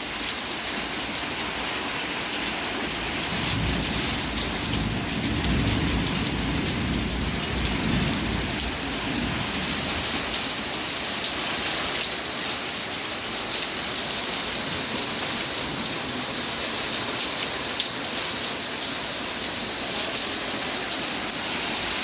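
Heavy rain pouring down in a steady hiss, with a low rumble of thunder from about three to nine seconds in.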